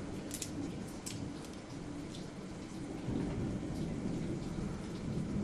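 Thunderstorm heard from inside a house: steady rain with a low rumble of thunder that swells a little about three seconds in, and a few light ticks in the first second or so.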